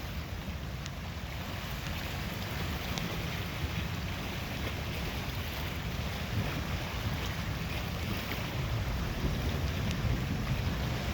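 Steady wind buffeting the microphone over the wash of Lake Superior waves.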